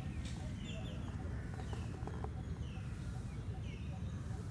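Cat purring close up, a steady low rumble, with a bird in the background repeating a short falling chirp about every second.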